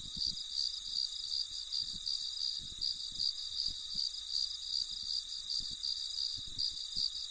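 Cricket chirping sound effect: a steady, high, rapidly pulsing trill.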